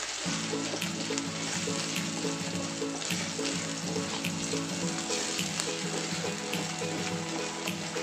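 Ground spice paste sizzling as it fries in hot oil in a wok, at the stage of being stirred until fragrant, with a few light clicks of the slotted spatula against the pan. Background music with a repeating melody comes in just after the start.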